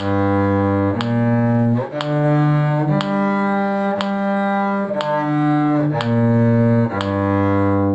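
Cello bowing a G minor arpeggio on its G string in steady quarter notes, about one a second: up from low G through B-flat and D to the G an octave higher, then back down.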